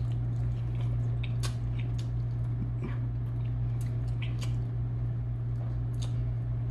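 A person chewing chicken with wet mouth clicks and smacks while picking meat off the bone, over a steady low hum.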